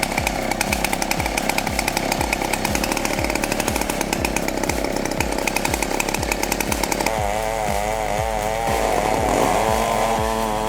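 A 22-horsepower Honda engine running under load as its saw works through a blue gum log. About seven seconds in, the sound changes to a chainsaw running with a wavering pitch as it mills through a large oak log.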